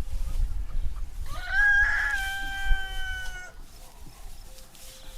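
Rooster crowing once, a single long crow of about two seconds that rises at the start and then holds its pitch.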